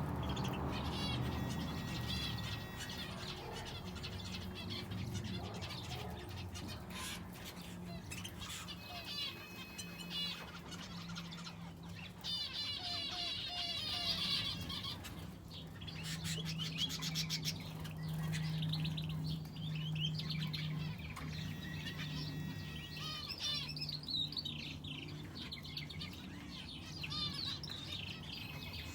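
Aviary finches and a canary chirping and calling, many short overlapping calls, with a rapid trill about fourteen seconds in. A steady low hum runs underneath.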